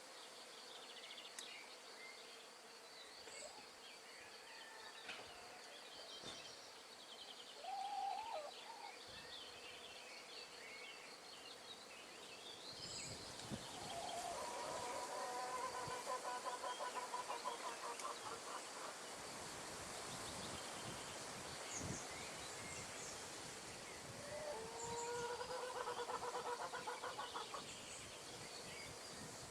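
Outdoor nature ambience: a steady hiss of wind in the trees, a steady high insect tone, and scattered bird chirps. A loud, fast-pulsing trilled call comes about halfway through and again near the end.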